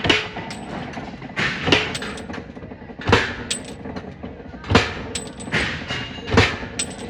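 Repeated metal impacts from sprocket production machinery, about one every second and a half, each with a short metallic ring, over a steady workshop noise.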